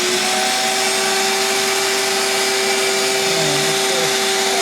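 Vacuum cleaner running steadily at full speed, its motor giving a steady whine over a loud rushing noise.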